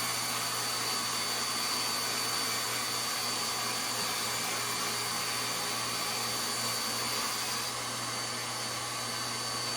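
Table saw running with a shop-vacuum-type sawdust suction, a steady mechanical drone with a thin high whine that drops out near the end as the cut of a melamine panel finishes.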